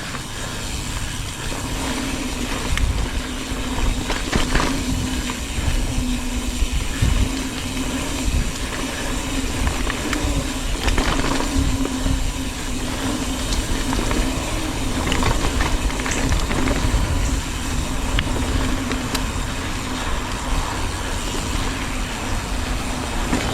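Mountain bike riding over a rough trail: a steady rumble of tyres and drivetrain with rattles and several sharp knocks over roots and rocks, and wind buffeting the microphone.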